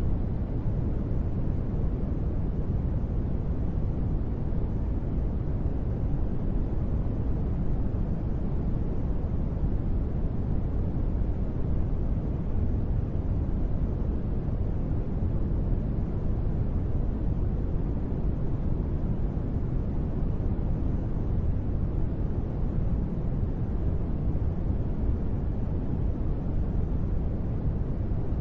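Steady, even sleep noise with a deep, low-heavy sound and little hiss, unchanging throughout; the track is sold as gentle rain white noise.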